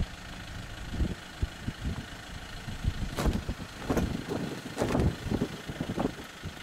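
Safari vehicle's engine running steadily, with irregular low thumps and several short rustling bursts between about three and five seconds in.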